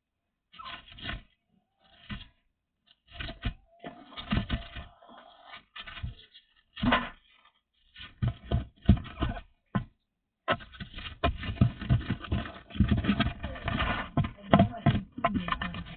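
Irregular scraping, scratching and knocking noises in short bursts, becoming nearly continuous for the last five seconds or so.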